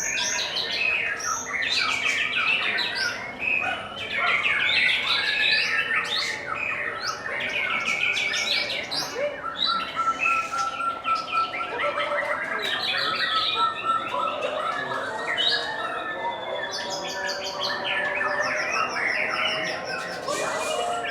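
Many caged contest songbirds singing at once: a dense, unbroken mix of overlapping trills, chirps and squawky calls, with one bird holding a steady whistled note for a few seconds midway.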